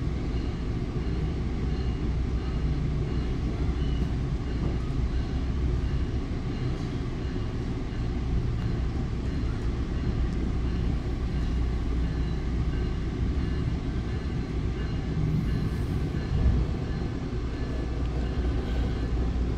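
Steady rumble of a Bombardier MultiLevel commuter coach running along the rails, heard from inside the car. There is one brief louder bump near the end.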